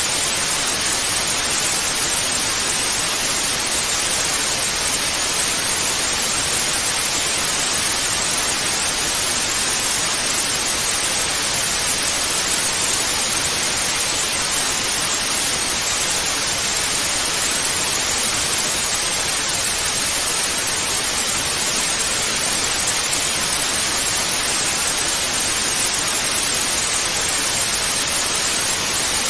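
Steady television static hiss, an even white-noise rush that does not change, bright and weighted toward the treble.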